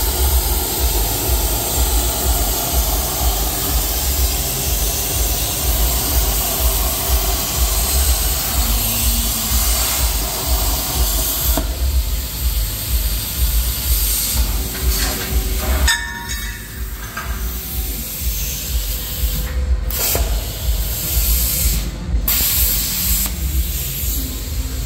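CNC plasma cutter at work: a steady, loud hiss of the torch's arc and air jet over a low rumble. The sound shifts abruptly a few times and drops a little about two-thirds of the way through.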